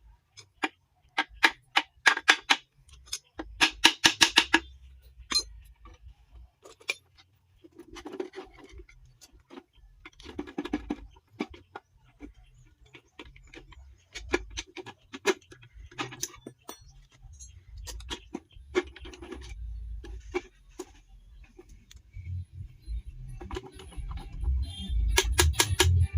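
Sharp metallic clicks and clinks of tools and transmission parts being handled, with quick runs of clicks about two and four seconds in. A low rumble grows near the end.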